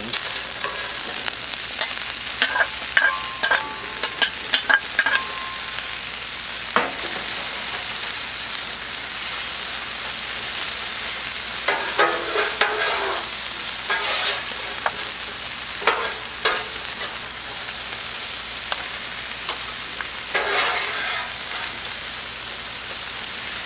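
Diced onion, garlic and frozen peas and carrots sizzling steadily in avocado oil on a Blackstone flat-top griddle at full heat. Steel griddle spatulas clink and ring against the plate in the first few seconds, then scrape across it a few times as the vegetables are spread and turned.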